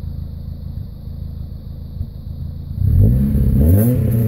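Supercharged 2.2 L L61 Ecotec four-cylinder of a 2007 Saturn Ion, through a MagnaFlow muffler, idling steadily, heard from the driver's seat. About three seconds in it is revved twice in quick succession, its pitch rising, then held at raised revs.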